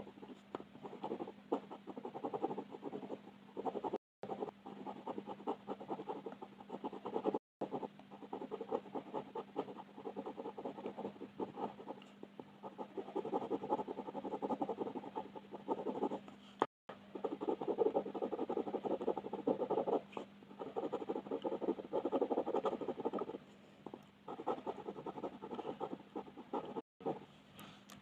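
Close-up coloring on paper: quick back-and-forth shading strokes scratching steadily, over a faint steady hum. The sound cuts out to dead silence for an instant four times.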